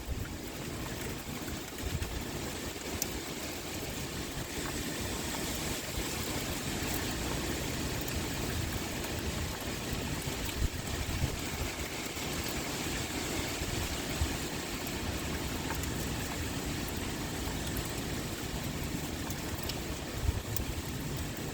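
Heavy rain pouring steadily, an even hiss, with wind blowing. Low rumbles swell now and then, most strongly near the end.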